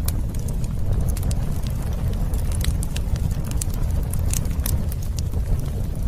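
Outdoor wood fire burning, with a steady low rumble of flames and sharp irregular crackles and pops, several close together a little after the midpoint.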